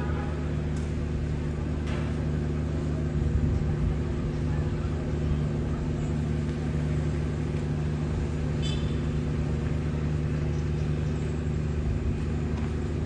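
An engine running steadily at constant speed, a low even hum that does not change pitch, with a few faint ticks over it.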